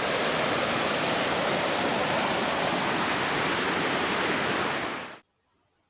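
Rushing water, a steady, even roar with a high hiss on top, fading out about five seconds in.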